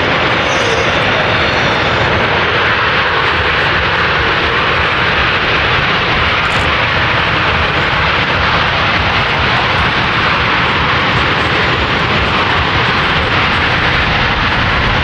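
C-17 Globemaster III's four Pratt & Whitney F117 turbofan engines running at high power in reverse thrust, a loud, steady jet roar that does not change.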